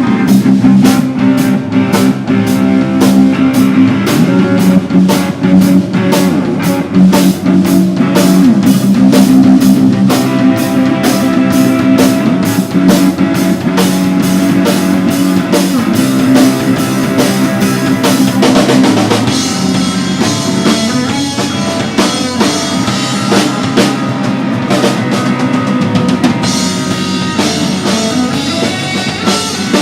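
Live rock band playing, with drum kit and electric guitar. The drums hit steadily and fast, and the texture thins somewhat about two-thirds of the way through.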